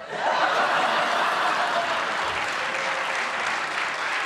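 Studio audience applauding, starting suddenly and keeping up a steady, dense clapping.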